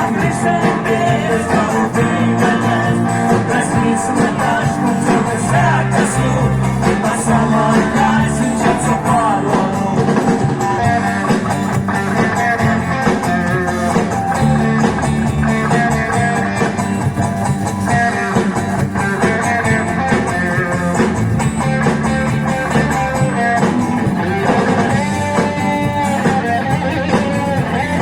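Live band playing a pop song, with guitar and singing over a steady bass line.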